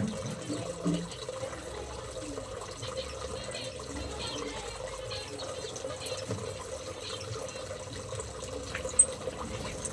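Water running steadily, with a single sharp click about nine seconds in.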